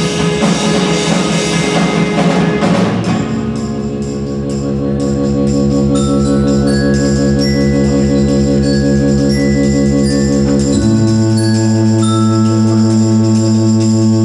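Live band music. For about the first three seconds the full band plays with drums. Then the drums drop out, leaving held, evenly pulsing chords with short high notes over them, and the bass moves to a new note about eleven seconds in.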